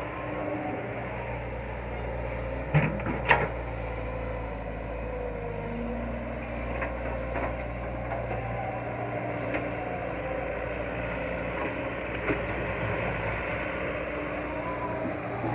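Excavator's diesel engine running steadily under work, its pitch wavering slightly, with two sharp metallic knocks about three seconds in.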